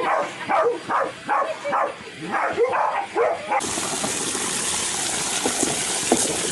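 A dog barking in quick, high yips, about two to three a second, for the first three and a half seconds. Then a sudden cut to a steady hiss with faint clicks.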